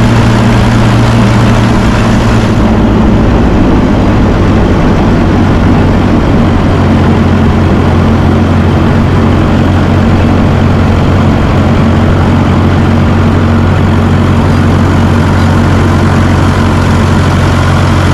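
1954 Fordson tractor engine running steadily at idle. About two and a half seconds in, its pitch drops slightly and the higher hiss fades as it settles to a slower idle.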